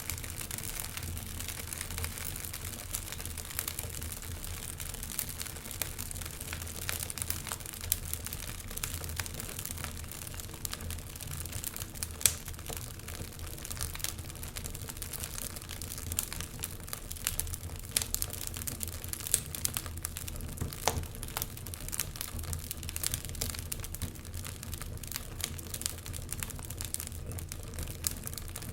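Wood fire crackling, with many small irregular pops and snaps over a steady hiss and one sharper pop near the middle.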